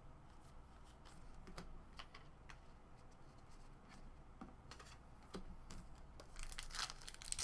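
Faint, scattered clicks and taps of trading cards being handled and flipped through, then, starting a little past six seconds in, a louder crinkling of a foil card-pack wrapper being torn open.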